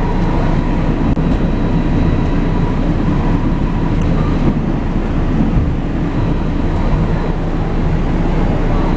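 Light-rail car running, heard from inside the passenger compartment: a steady, loud rumble of wheels and running gear with a thin steady whine above it.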